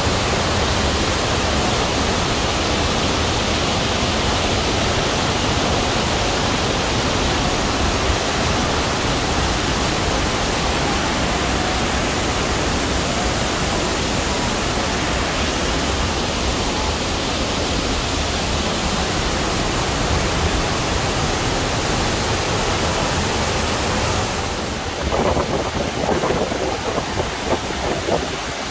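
Cascata delle Marmore waterfall: heavy water falling and crashing down, a steady loud rushing noise. Near the end the rush thins a little and an uneven fluttering sound breaks in.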